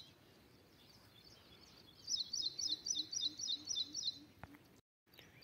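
A bird calling a rapid run of short, high chirps, about five a second, starting about two seconds in and lasting some two seconds, over faint outdoor background noise.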